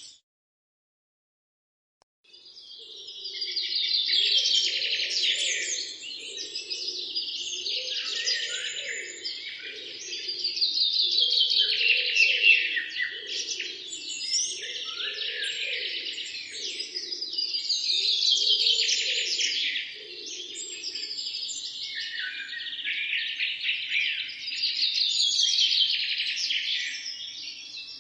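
A dense chorus of birds chirping and singing over one another. It starts after about two seconds of silence and swells and fades in waves every six or seven seconds.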